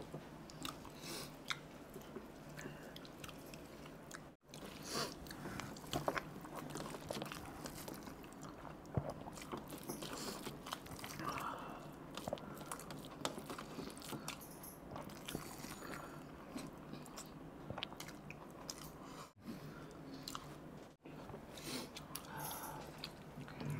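Close-up chewing and wet mouth sounds of people eating rice pulao and mutton by hand, with many small irregular clicks. The sound cuts out completely for a moment three times.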